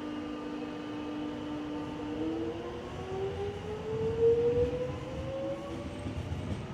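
Melbourne suburban electric train pulling out of the station, its traction motors whining and rising steadily in pitch as it accelerates, over the rumble of the wheels on the rails.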